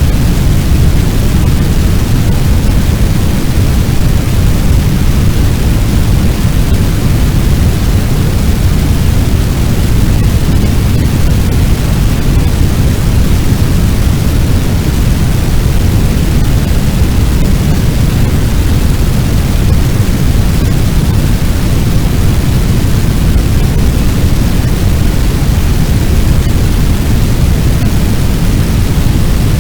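Fire sound effect of a large blaze burning: a loud, steady rumbling noise, heaviest in the low end, with no pops or breaks.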